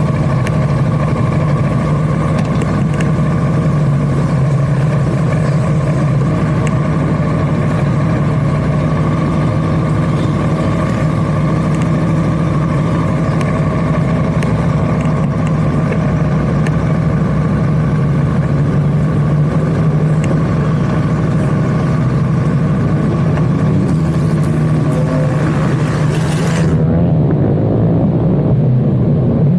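Motorcycle engine running at a steady speed while riding, with no big revs. The sound turns duller near the end.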